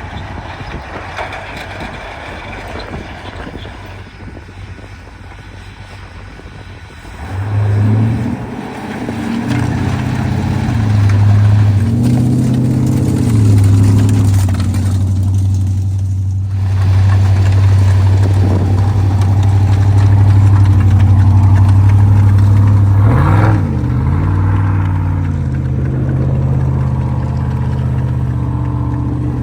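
A vehicle engine, quieter at first, comes in loudly about seven seconds in and runs steadily, its pitch rising and falling a few times as it is revved.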